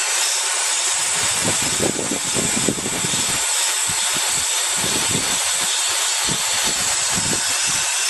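K&F Concept BS400 electric air duster running steadily, its high-speed fan giving a loud hiss as it blows dust out of a fine vacuum-cleaner filter. Irregular low rumbling comes and goes from about a second in.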